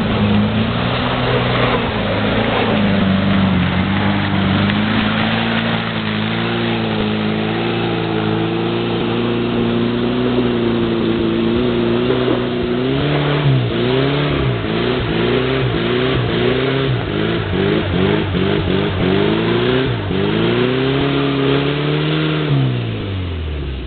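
VW Beetle's air-cooled flat-four engine pulling steadily, then from about halfway revving up and down in rapid surges as the car struggles for grip on the climb, its revs dying away near the end.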